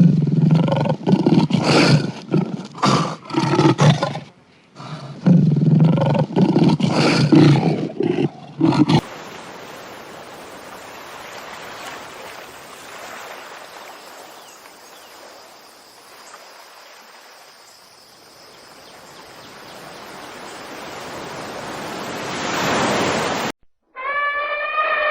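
A lion roaring in two bouts of deep, loud roars over the first nine seconds. A steady hiss-like noise follows for most of the rest. A pitched, horn-like animal call begins just before the end.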